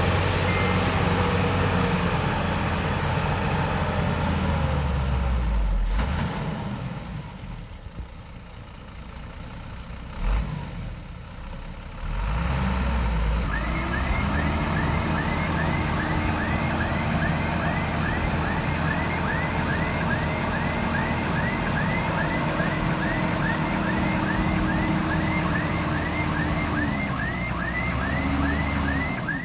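Diesel engine of heavy earthmoving machinery running under load. It eases off for several seconds, with a single knock, then picks up again and runs steadily. Through the second half a short high chirp repeats a little over twice a second.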